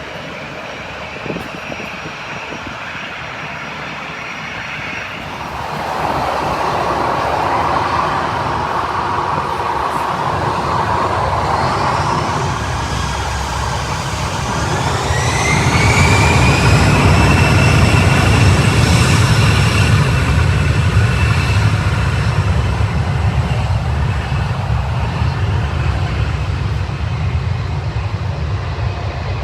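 Jet airliner engines running: a broad roar, then a deep rumble with a turbine whine that rises in pitch and then holds steady.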